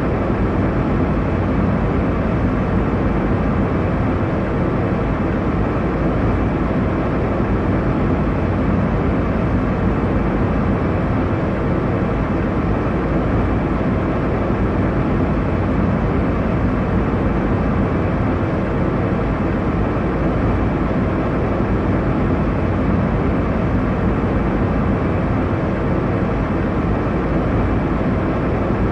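Airliner cabin noise in cruise: a steady, even rushing drone of engines and airflow, strongest in the low range, with no change.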